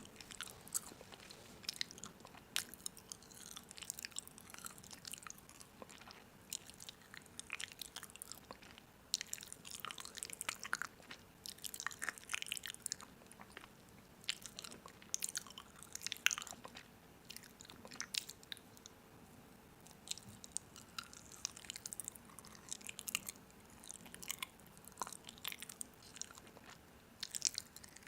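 Crunchy food being bitten and chewed: irregular crisp crunches coming in bunches, over a faint steady hum.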